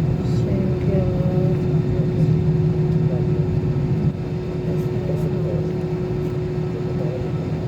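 Airliner engines and airflow heard from inside the passenger cabin: a steady hum with a constant tone running through it, easing slightly about four seconds in, with faint voices underneath.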